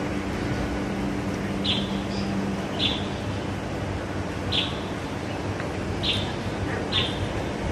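A wild bird repeating a short, high, slightly falling call note five times, one to two seconds apart, over a steady background hiss.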